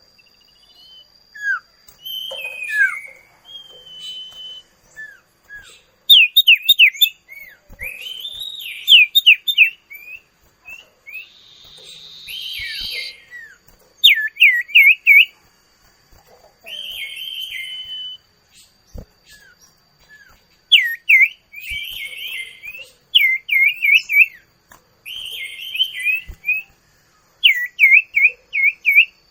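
Common iora (sirtu) song: phrases of quick, sharply falling whistled notes, repeated every second or two, over a faint steady high tone.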